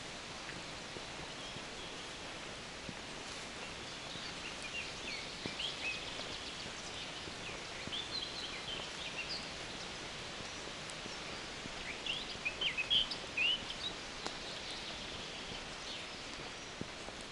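Small songbirds chirping in short, quick phrases over a steady background hiss, with the loudest burst of song about three quarters of the way through.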